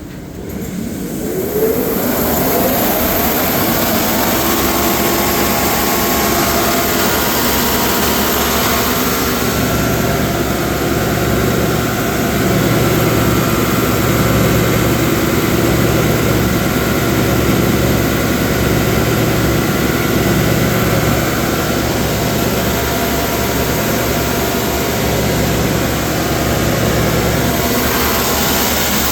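A machine's motor starting up, its whine rising over the first two seconds, then running steadily at speed with a high, hissing rush.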